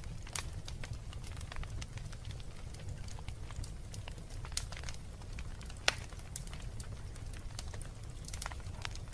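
Wood fire burning in a fireplace: frequent sharp pops and snaps of crackling wood over a steady low rumble, with one louder pop about six seconds in.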